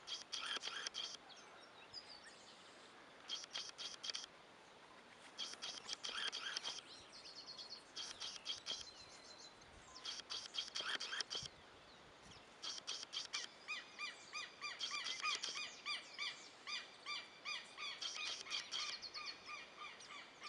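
Wild birds calling in short bursts of rapid, high chirps, joined about halfway through by a long run of quickly repeated short song notes.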